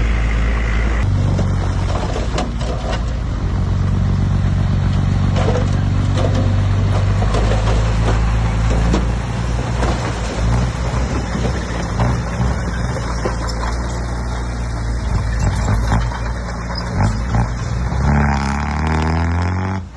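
Heavy diesel construction machinery working: a loud, steady engine drone with scattered knocks and clanks. The engine note changes abruptly about a second in, and an engine revs up near the end.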